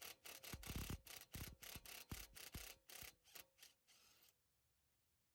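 Hand tool working a wheel stud in quick, even rubbing strokes, about four or five a second, stopping about four seconds in.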